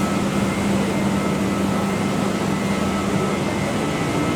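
Steady rumble and hum of a train at a station platform. A low hum drops out about three seconds in, and a slightly higher hum starts near the end.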